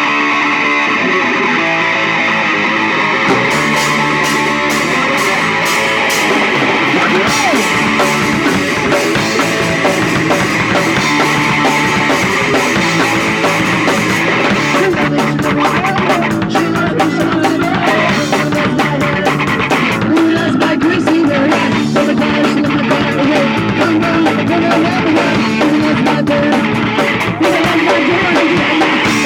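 Punk rock music: guitars and a drum kit with singing. The low end comes in fuller about three seconds in.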